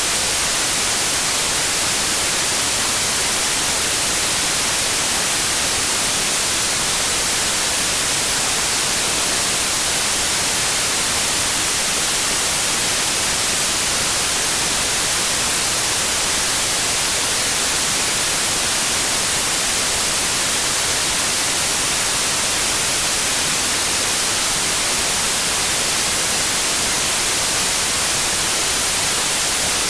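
Generated white noise: a steady, even hiss that never changes, brightest in the high treble.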